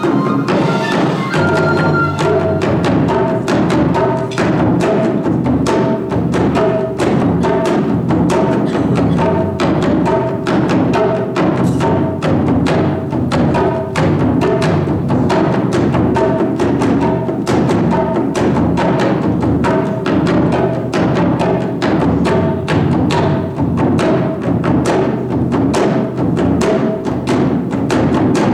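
Japanese taiko drum ensemble playing a fast, steady, driving rhythm of dense strokes, with a repeated high two-note figure sounding over the drums.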